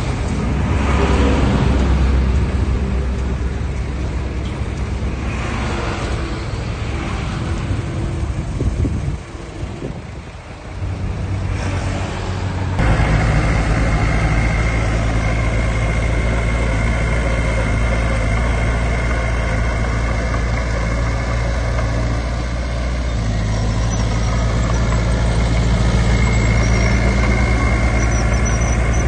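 Diesel engines of heavy earthmoving machinery, dump trucks and a bulldozer, running under load. About thirteen seconds in the sound changes abruptly to a louder, steadier engine note with a thin high whine over it.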